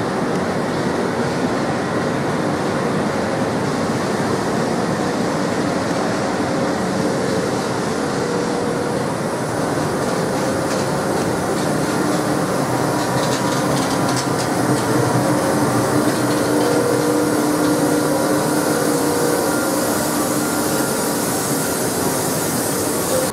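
A train running at a station platform: a dense, steady rumble and rush of wheels and machinery with faint humming tones. It grows a little louder in the second half.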